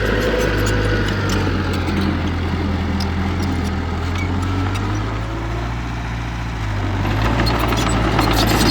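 Heavy earthmoving machine's diesel engine running steadily, its note dropping about a second in and rising and getting louder again near the end, with scattered light clicks over it.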